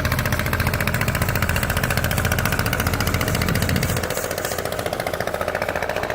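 Tour boat's engine running with a fast, even throb; its deep low rumble drops away about four seconds in.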